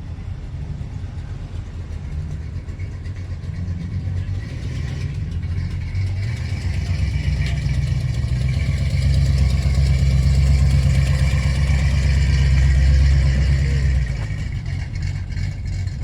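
A car engine running with a low rumble. It grows louder about halfway through, holds steady for several seconds, then drops back near the end.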